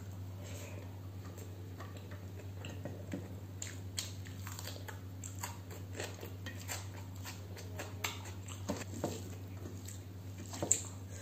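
Close-up chewing and biting of a mouthful of food eaten by hand, with many short mouth clicks, the sharpest near the end.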